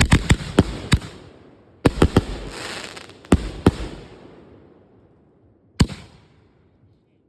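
Consumer firework shells going off from a reloadable mortar rack: quick clusters of sharp bangs, about ten in all, each cluster trailing off in a crackling hiss, with one last lone bang near the end.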